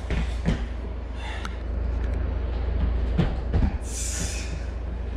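Steady low rumble with a few scattered knocks and clicks, and a brief hiss about four seconds in.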